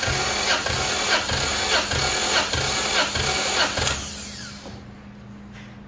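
Toyota 1.5JZ straight-six (2JZ block with 1JZ pistons) cranking on its starter with the spark plugs out for a compression test: a steady hiss with a rhythmic pulse about every half second. The cranking stops about four and a half seconds in.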